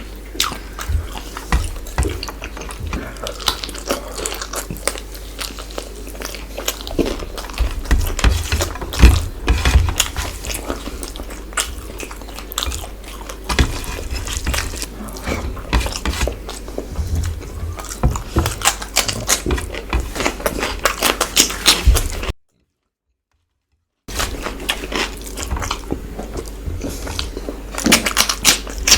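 Close-miked eating: a person chewing and biting into chicken masala and rice, with many wet mouth clicks and smacks over a low steady hum. The sound cuts out completely for about two seconds near the end.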